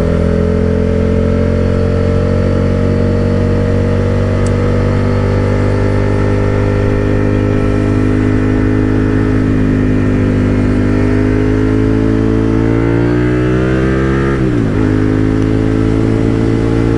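Motorcycle engine running under way. Its pitch holds, then climbs as the bike accelerates; about fourteen and a half seconds in it drops sharply with an upshift and starts climbing again.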